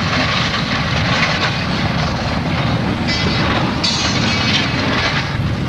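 A train rumbling and grinding heavily along the track, with two short bursts of high metallic screeching about three and four seconds in: the sound of a train wreck.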